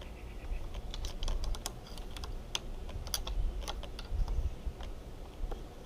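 Irregular small clicks and scrapes of a car trim-rivet popping tool prying at a stuck retaining ear on a Rainman watermaker membrane housing.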